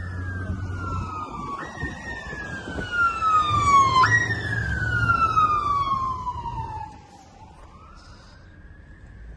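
Fire truck siren on a responding rig: the pitch slides slowly down, jumps back up twice, then makes one long fall and drops away about seven seconds in, over the low rumble of the truck's engine. It grows loudest in the middle, then fades as it passes.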